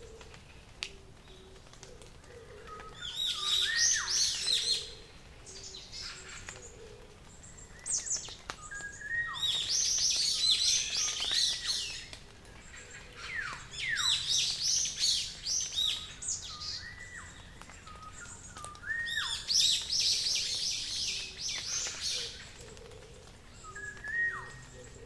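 Wild birdsong at dawn: a bird repeats a rich, rapid warbled phrase about every five seconds, each phrase often opening with a falling whistle. A faint low note repeats steadily underneath.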